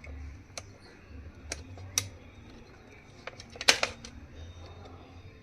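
A few sharp clicks and taps from handling a mixer grinder's wiring and small tools, the loudest a quick cluster about two-thirds of the way through.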